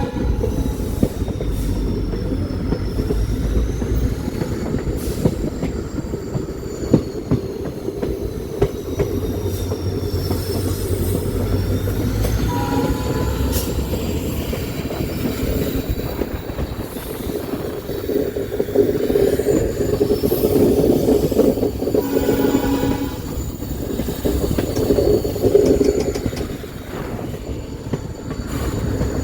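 Train running along the track: a steady rumble of wheels on rail with some clickety-clack, and a thin, high wheel squeal that slides up and down in pitch. Brief horn-like tones sound about 13 seconds in and again about 23 seconds in.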